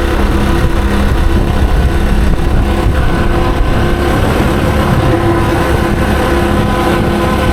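Yamaha TW225's single-cylinder four-stroke engine running steadily as the motorcycle rides along, its engine note shifting a little a few seconds in, over a steady low rumble of wind and road noise.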